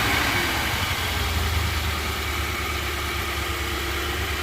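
Nissan Patrol engine idling steadily just after starting, its level easing down a little over the first couple of seconds.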